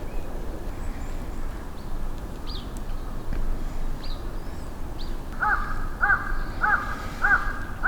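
A crow cawing about five times in an even series, roughly one caw every 0.6 s, starting about two-thirds of the way through. Before that, a few faint, short, high bird chirps are heard over a steady outdoor noise.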